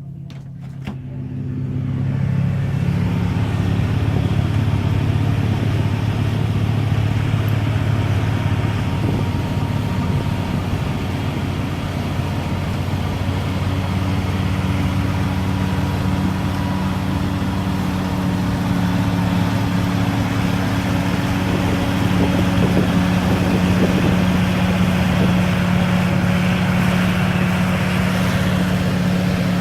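Car driving: a steady engine hum under road and tyre noise, which grows louder about two seconds in, as if the car picks up speed.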